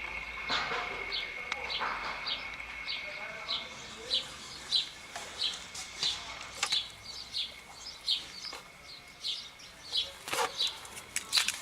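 A bird repeating a short high chirp evenly, about twice a second, with a few sharp knocks in the second half.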